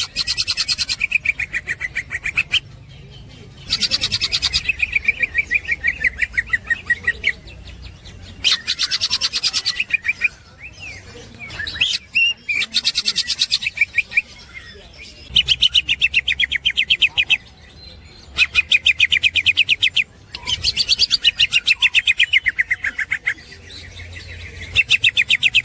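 Green leafbird (cucak hijau) chattering in its fast 'ngekek' style: bursts of rapid, evenly repeated high notes, each lasting a couple of seconds, about eight times with short pauses between.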